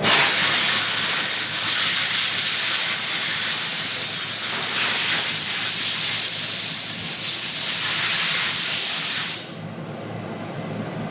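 Steam cleaner wand spraying a steady jet of steam, starting abruptly and cutting off suddenly about nine seconds in.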